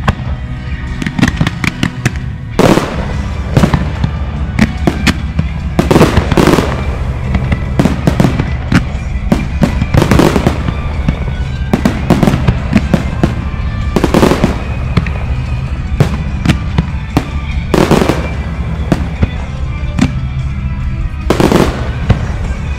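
Aerial firework shells launching and bursting: a sharp bang every couple of seconds amid many smaller crackling reports, over steady background music.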